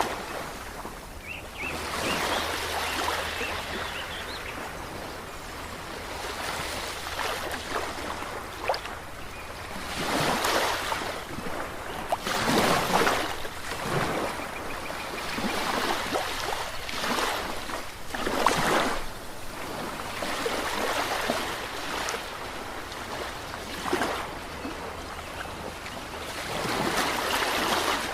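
Ocean waves breaking and washing in, the surf swelling and fading in irregular surges a few seconds apart.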